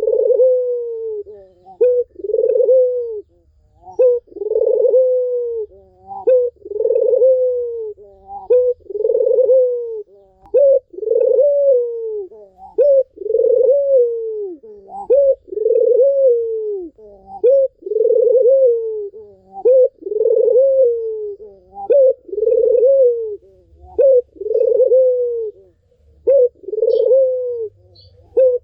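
Barbary dove (puter) cooing over and over, a call about every two seconds, each one a short note and then a longer coo that falls away at the end.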